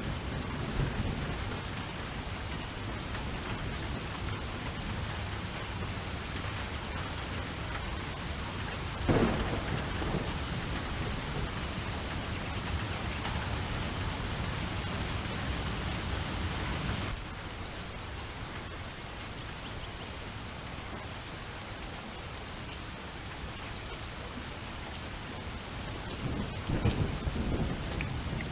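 Steady rainfall with thunder. A sharp thunderclap comes about nine seconds in, and a rumble comes near the end. Partway through, the rain suddenly drops a little in level.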